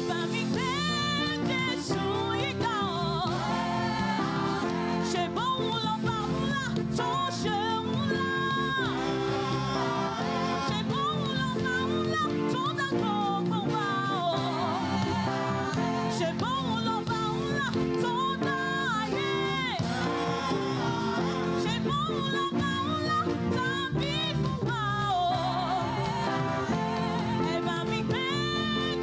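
Live gospel praise music: singing over a steady band accompaniment of sustained chords and bass.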